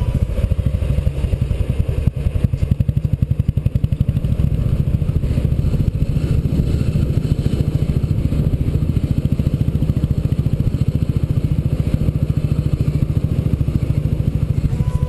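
Royal Enfield single-cylinder motorcycle engine running at a steady road speed, its exhaust beat a quick, even pulse.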